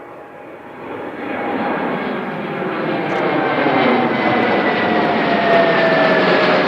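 Boeing 787-9's GEnx turbofan engines growing louder about a second in and then running loud and steady as the airliner passes. Two whining tones in the engine noise slowly fall in pitch.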